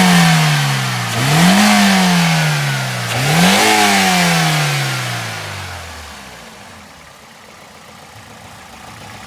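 Toyota Corolla GLi engine being blipped with the throttle: it falls back from one rev, is revved sharply twice more about a second and three seconds in, each time easing back slowly, then drops to a quiet idle. The engine is being tested after a tappet (valve clearance) adjustment made to cure its noise.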